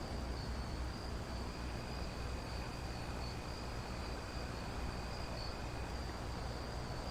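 Quiet soundtrack ambience: a steady, high cricket-like trill over a constant hiss and low rumble, with a fainter, lower steady tone joining for a few seconds in the middle.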